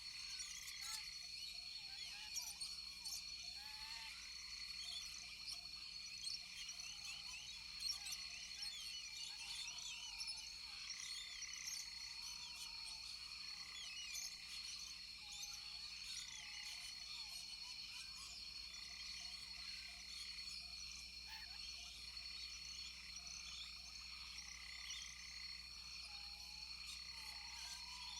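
Rainforest chorus of frogs calling over a steady, high-pitched insect drone, with many quick chirps layered on top.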